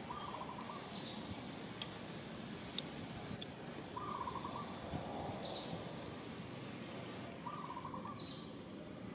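A bird calling three times in a short trilled phrase, repeated every few seconds, over a steady outdoor background hum with a few faint high chirps.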